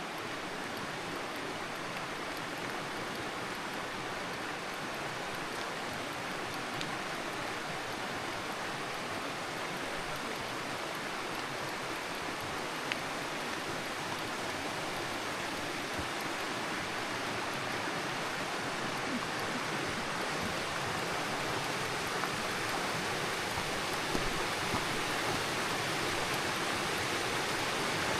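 Steady rush of flowing water in a mountain river valley, slowly growing louder.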